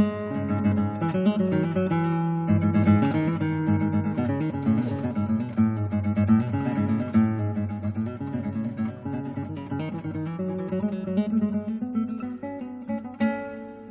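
Background music: acoustic guitar played with quick plucked and strummed notes, in a flamenco-like style.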